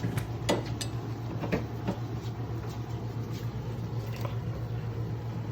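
A few light clicks and knocks as a dog pulls an aluminium drink can from an open refrigerator, over a steady low hum.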